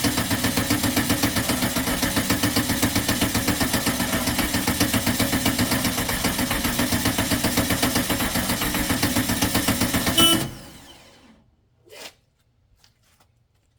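Starter cranking a freshly built Volkswagen engine in an even, rhythmic chug for about ten seconds without it catching, then stopping abruptly; a single click follows. The engine doesn't fire, which the owner suspects is fuel not yet getting to it.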